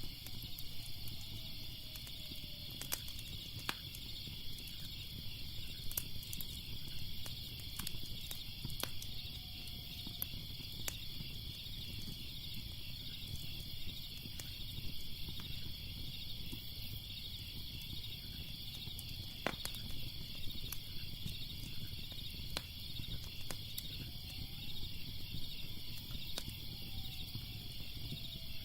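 Wood fire crackling with scattered sharp pops, over a steady, pulsing chorus of crickets chirping.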